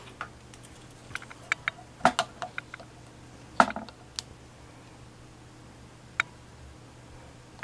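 Scattered light clicks and knocks of small objects being handled on a workbench, thickest between about one and four seconds in, with one more sharp click later, over a faint steady low hum. The motor is not running.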